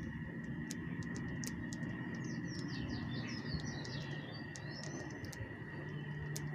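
Small birds chirping: a quick run of short, falling notes through the middle, over a steady high whine and scattered sharp clicks.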